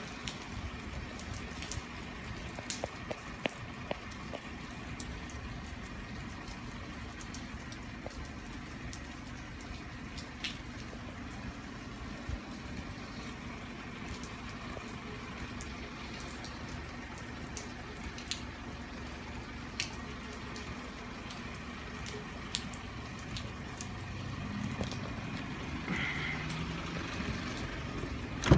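Rainwater dripping after a storm: scattered drops ticking over a steady background of trickling water. A low rumble grows louder in the last few seconds.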